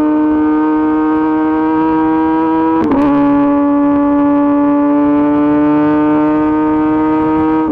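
Kawasaki ZX-10RR's inline-four engine running at high revs through an Arrow Pro-Race exhaust under way. About three seconds in there is a brief break and the pitch drops a little, as in a quick upshift, and then it climbs slowly again.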